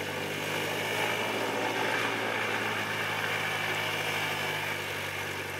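Cessna 172's piston engine and propeller running with a steady drone.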